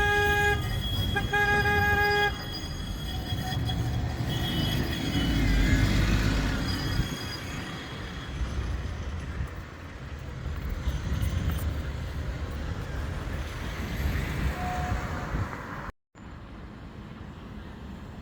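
A tram horn sounding twice, two steady pitched toots of about a second each, followed by the rumble of a passing tram with faint high wheel-squeal tones.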